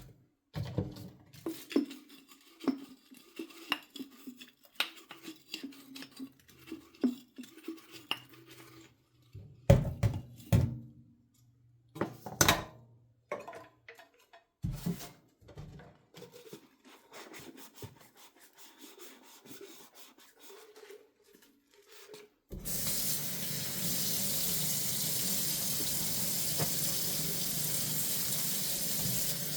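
Dishes and cutlery clinking and knocking as they are handled in a sink, a few sharper clanks among them. About three-quarters of the way through, the faucet is turned on and water runs steadily into the sink.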